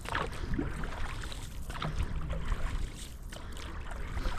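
Canoe paddling on open water: a paddle dipping and water splashing at irregular moments, over a steady low rumble.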